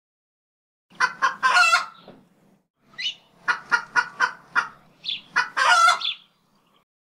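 A bird calling in three bouts of quick, short repeated notes, about four a second, with a longer drawn note in the first and last bouts.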